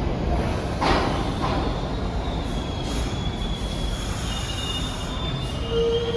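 New York City subway train rumbling through an underground station, with thin high-pitched steel wheel squeal setting in about two seconds in and carrying on; a lower held tone joins near the end.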